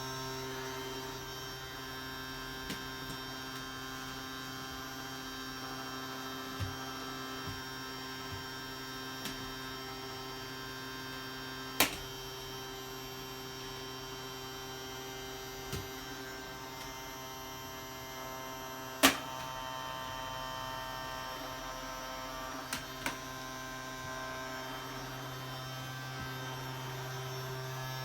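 Vacuum cleaner motor running steadily with a constant hum, broken by a few sharp knocks, the loudest about twelve and nineteen seconds in.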